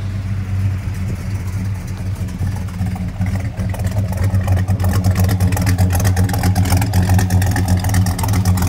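The 1969 Oldsmobile Cutlass S's original 350 Rocket V8, just started and running at a steady idle, getting louder toward the end.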